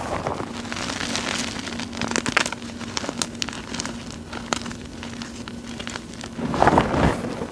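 Gym chalk and cornstarch powder crushed by hands, with small crunchy chunks crackling and snapping in quick, irregular clicks. A denser, louder crunch comes near the end.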